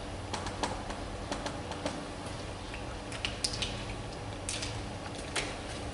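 Scattered, irregular light clicks and taps as text is entered, about a dozen over several seconds, over a low steady hum.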